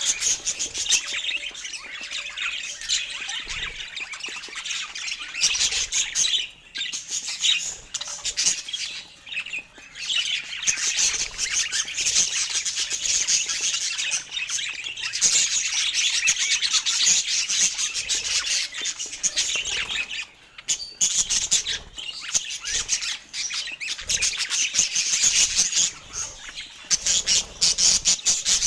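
Budgerigars chattering, with a dense, unbroken stream of rapid chirps and squawks that dips briefly a few times.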